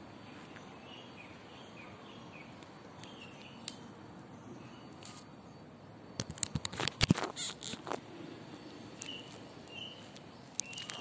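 Quiet outdoor background with small birds chirping faintly now and then, and a flurry of sharp clicks and knocks about six to eight seconds in.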